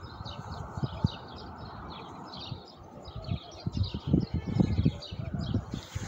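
Small birds chirping rapidly and continuously in short high notes, over irregular low thumps that come more often in the second half.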